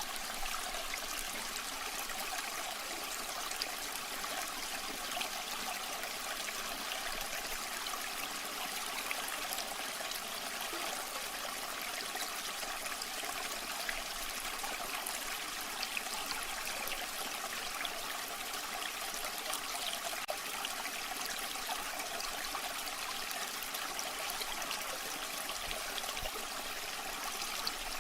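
Waterfall water rushing steadily: an even, unbroken hiss, bright and with little low rumble.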